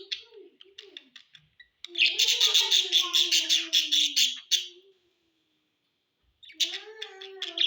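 Budgerigars chattering in a fast, dense run of high chirps that breaks off for about a second and a half and then starts up again near the end.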